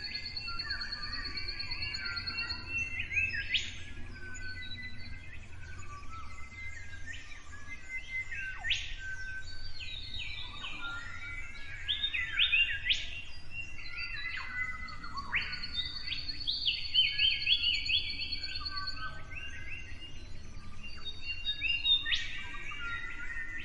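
Several songbirds singing and calling together: overlapping chirps, short whistled notes and quick sweeping calls, with a couple of rapid trills, over a faint low hum.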